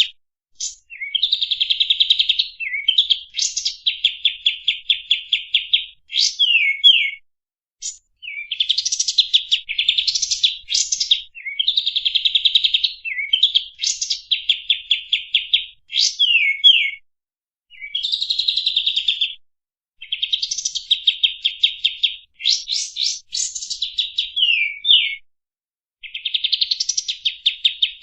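Kapas tembak songbird singing: fast rattling trills mixed with sharp downward-sliding notes, in repeated phrases of one to three seconds with short gaps between them. This is a masteran song recording, the kind played to teach captive songbirds.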